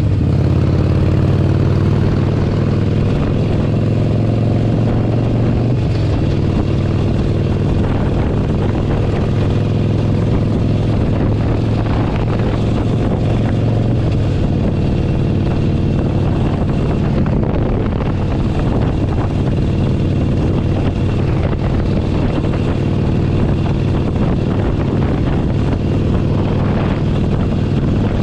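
Harley-Davidson Forty-Eight Sportster 1200's air-cooled V-twin running under way, heard from the saddle. Its pitch climbs in the first couple of seconds, then holds fairly steady, and its low rumble eases about halfway through.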